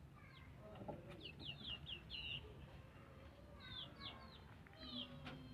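Birds chirping faintly: short high chirps in a few quick runs.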